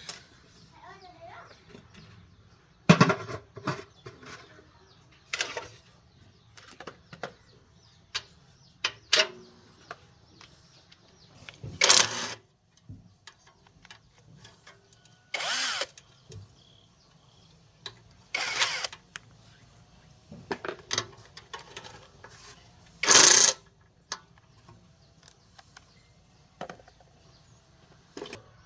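Irregular clicks, knocks and several short scraping or rasping bursts of hands-on repair work, with no engine running.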